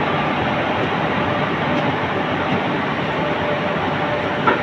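Express passenger train of an electric locomotive and coaches passing close at speed without stopping: a steady, loud rush of wheels rolling on the rails. A single sharp clank sounds near the end.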